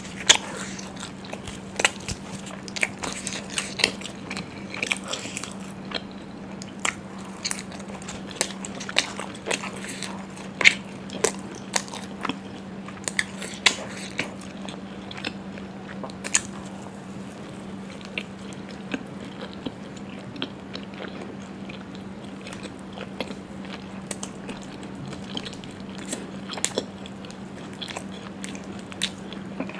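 Close-miked eating: a person biting and chewing curry and puri, with many short, irregular wet mouth clicks and smacks, busier in the first half and sparser later, over a steady low hum.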